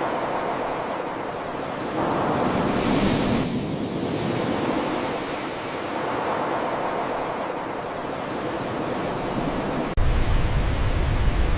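Rain falling, a dense rushing wash that swells and eases. About ten seconds in it cuts abruptly to a louder, deeper rumbling noise.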